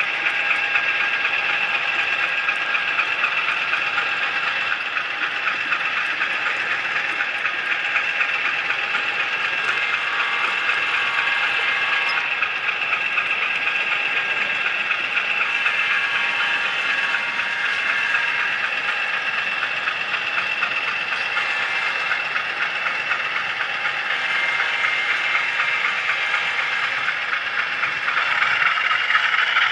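HO scale model train running on the layout's track, heard from a camera car riding along: a steady whirring rattle of small wheels and motor on the rails. The whir grows brighter and a little louder near the end.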